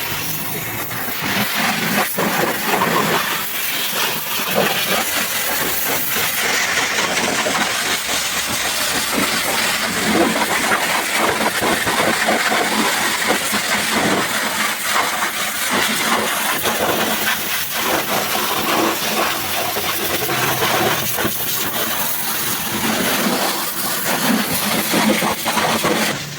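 High-pressure washer jet spraying water onto a muddy truck: a steady, loud hiss with crackling spatter as the water hits the surface.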